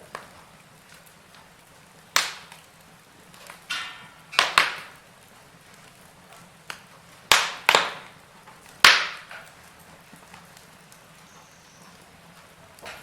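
Wood fire crackling in a fireplace: about seven sharp pops and snaps at uneven intervals over a faint steady hiss.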